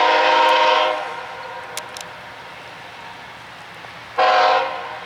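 CPKC freight locomotive's air horn sounding a chord of several notes: a long blast that ends about a second in, then a short blast near the end.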